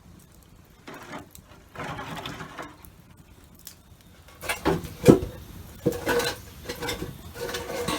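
Handling sounds: scraping and rustling with knocks, picking up about halfway through with a sharp knock. A faint ringing tone runs under the later sounds.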